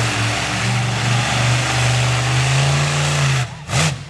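Monster truck engine running hard, its pitch slowly climbing, then dropping off sharply about three and a half seconds in, followed by a short rev that rises and falls.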